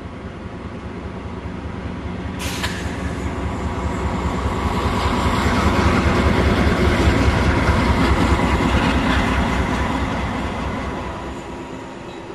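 A railroad snow plow and diesel locomotives pass close by, their pulsing rumble building to a peak about halfway through and then easing off. A sharp crack comes about two and a half seconds in.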